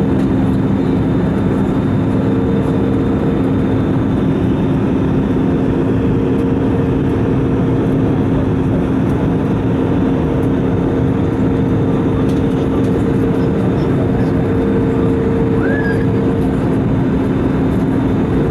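Steady roar of airflow and jet engines inside an Airbus A320 cabin in flight, under a steady low hum and a second, higher hum that drops out near the end.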